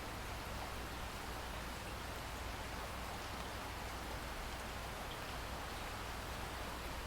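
Steady rain falling, an even hiss with no single drops or claps standing out.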